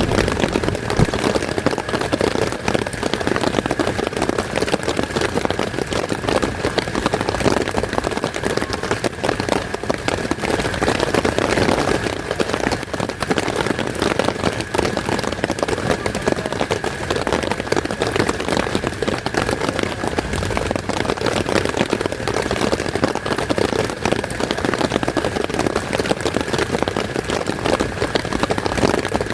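Heavy rain falling steadily, a dense patter of drops on a surface, with a faint steady high tone under it.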